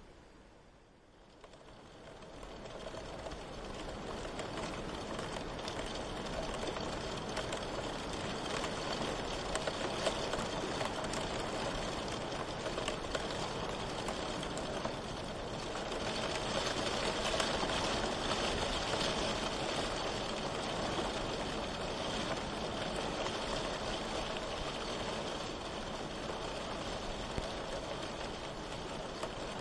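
Steady rain falling, an even hiss with fine patter, fading in over the first few seconds and swelling a little just past the middle.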